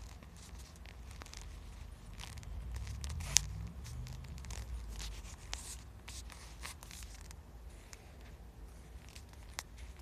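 Sleeping puppy's paws twitching and scratching against soft bedding as she dreams: a run of scratchy rustles and light clicks, one sharp click about three and a half seconds in, over low snoring breaths.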